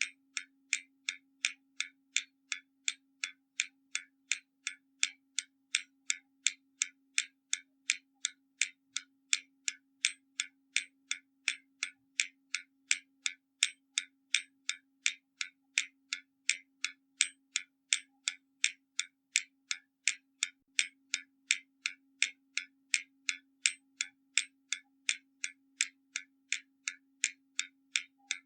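Hermle mechanical skeleton clock's escapement ticking evenly, about two ticks a second, with a faint steady hum beneath.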